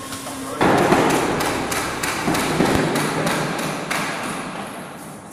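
A loud burst of knocking and thudding begins about half a second in: many quick impacts, as of parts being knocked together during assembly, fading gradually over the next few seconds.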